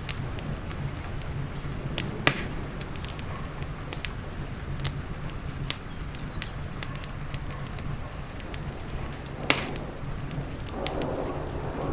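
Wood fire crackling in a fireplace: irregular sharp pops and snaps over a low steady rumble, with two louder pops, about two seconds in and near the end. A wash of rain swells in just before the end.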